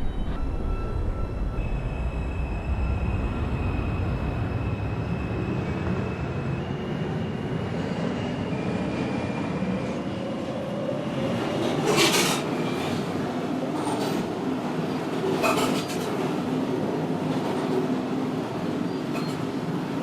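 R142 subway car running between stations, heard from inside. The propulsion whine steps up in pitch over the first several seconds as the train gathers speed, then gives way to steady running noise with a few sharp clicks from the wheels over rail joints.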